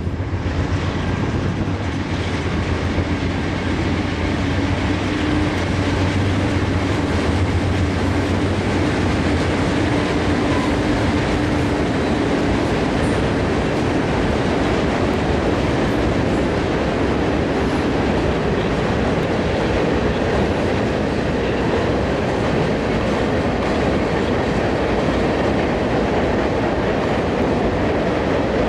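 Freight train rolling past: a diesel locomotive's engine drone for roughly the first dozen seconds, then a steady rumble of freight cars on the rails.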